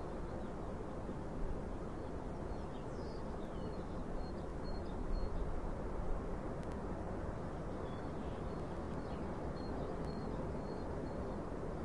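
Small birds giving short, high chirps every second or so, over a steady rushing background noise.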